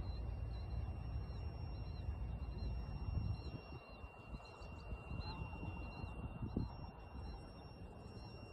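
Outdoor field ambience: a bird gives short high chirps over and over, about twice a second, above a low rumble that eases after about three seconds. A faint steady high tone runs underneath.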